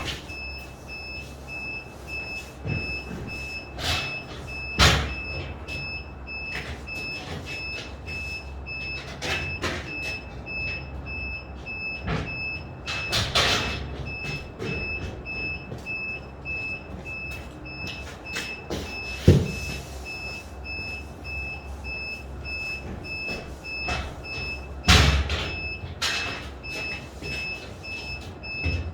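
Construction-site ambience: an electronic warning beeper pulsing rapidly and steadily throughout over a low machinery rumble, with scattered knocks and bangs, the loudest a few seconds in, near the middle and about five seconds from the end.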